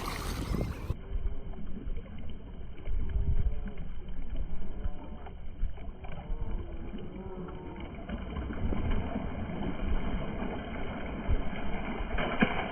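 Wind buffeting the microphone in a low, uneven rumble.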